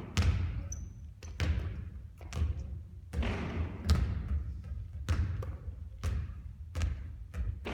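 Basketball bouncing on a court floor during three-point shooting practice: a string of sharp thuds about once a second, each with a short noisy tail.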